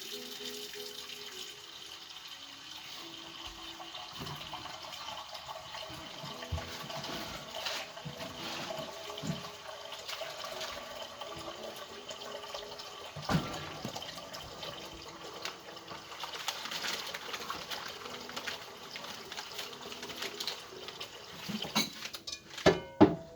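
Water running steadily from a kitchen tap, with a few sharp clanks near the end.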